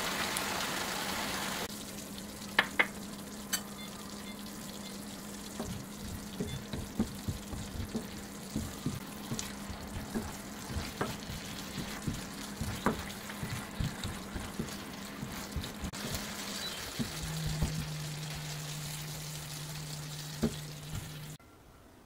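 Eggplant and pork stir-fry sizzling in sauce in a nonstick wok while a spatula stirs it, its strokes knocking against the pan many times. The sizzle is loud for the first couple of seconds and then settles to a quieter frying hiss under the knocks, with a low steady hum that drops in pitch about three quarters of the way through.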